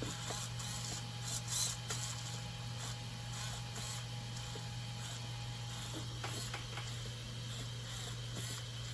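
Small RC steering servo being worked by the radio: faint mechanical whirring in short bursts, with light clicks, over a steady low electrical hum.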